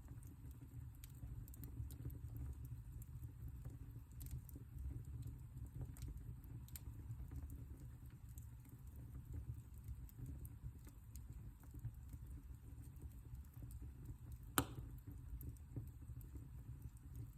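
Fire in a fireplace crackling: scattered small crackles over a low rumble of the flames, with one louder pop near the end.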